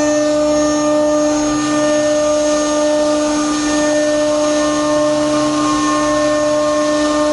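Metal lathe running at steady speed: a constant whine with overtones over an even hiss, unchanging throughout.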